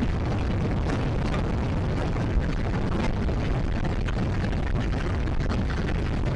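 Motorbike riding at speed, heard through a bike-mounted action camera: steady wind rushing and buffeting the microphone over a low rumble of road and engine.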